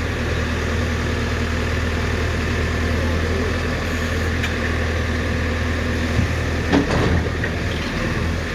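JCB excavator's diesel engine running at a steady idle, with a few sharp knocks about six to seven seconds in.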